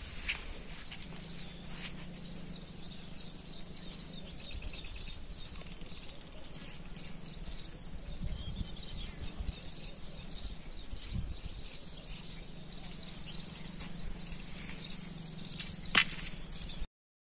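Small birds chirping over a faint, steady outdoor background, with one sharp knock near the end.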